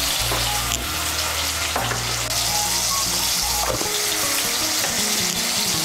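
Potato chunks sizzling steadily as they fry in hot vegetable oil in a kadai, with a spatula stirring and scraping against the pan now and then.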